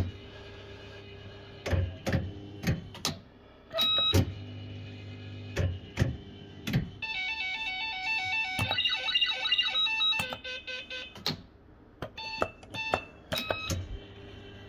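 Bell-Fruit FireCracker fruit machine being played: repeated sharp clicks from its buttons and reels, short electronic beeps, and a few seconds of warbling electronic jingle about halfway through.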